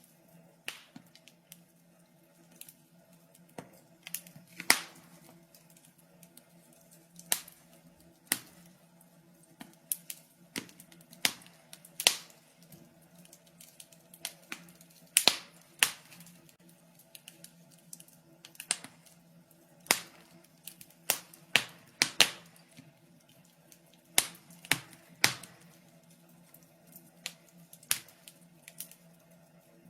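Wood fire crackling in a fireplace: irregular sharp pops and snaps, some in quick clusters, over a faint low steady hum.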